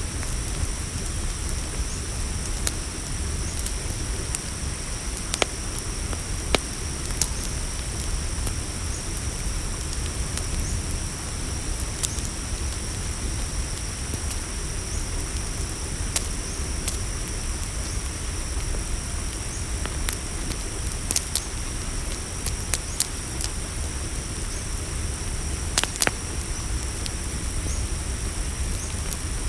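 Campfire crackling, with scattered sharp pops over a low steady rumble, while crickets trill steadily and high-pitched behind it.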